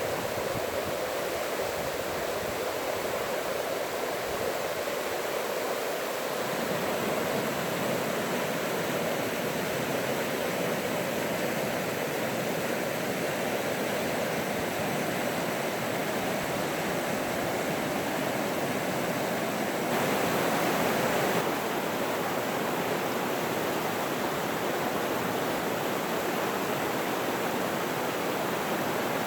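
Running water from a forest stream, a steady rush that swells briefly about two-thirds of the way through.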